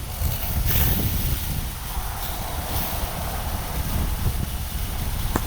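Steady low rumble of a heavy tow truck's diesel engine running, with wind buffeting the microphone. A brief hiss about a second in and a sharp click near the end.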